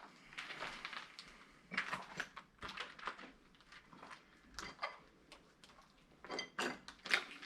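Scattered clicks, taps and light clatter of hands handling and setting down a small sensor device, with a run of sharper ticks near the end.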